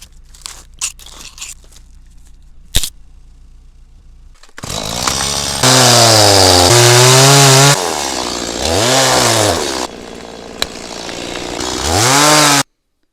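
Petrol chainsaw, quiet at first apart from a few light knocks, then running loud from about four and a half seconds in, its engine revving up and falling back several times. It cuts off abruptly near the end.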